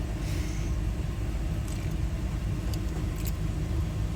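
Steady low rumble, with a few faint light clicks of small metal lock parts being handled.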